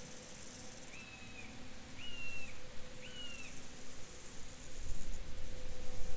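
Field ambience: a steady high insect chirring, with three even, whistled calls about a second apart. A low rumble comes in near the end.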